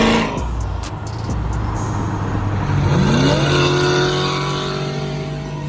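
Car engine revving: a rising pitch about three seconds in that then holds steady.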